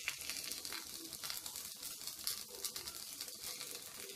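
Paneer paratha frying in ghee on a tawa, sizzling steadily with small crackles.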